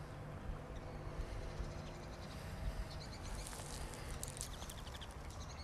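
Lakeside outdoor ambience: a continuous low rumble of wind on the microphone, with birds chirping in quick high bursts from about halfway in.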